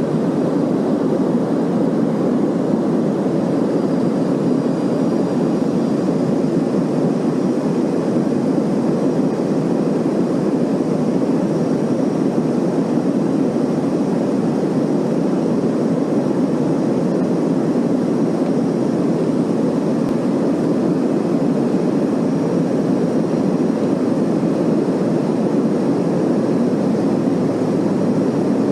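Steady cabin noise of an airliner in flight: an unbroken low rush of engines and airflow, even in level throughout.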